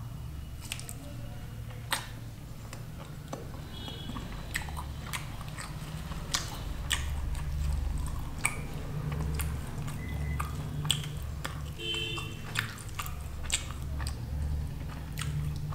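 Close-miked mouth sounds of eating lachha paratha with paneer curry: soft wet chewing with frequent sharp lip smacks and mouth clicks. A low steady hum runs underneath.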